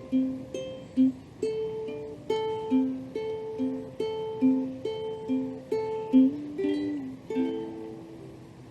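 A plucked string instrument, picked one note at a time in a slow melody of about two notes a second with no strumming.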